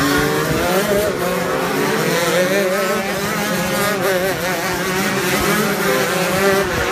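Two-stroke shifter kart engine running at high revs, its pitch climbing in the first second and then wavering up and down.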